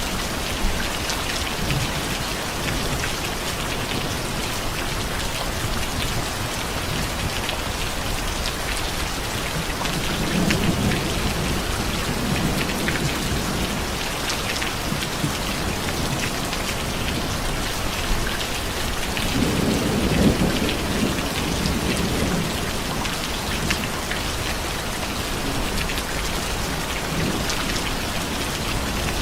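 Steady heavy rain, with low rolling thunder swelling up twice, about a third of the way in and again past the middle, the second rumble louder.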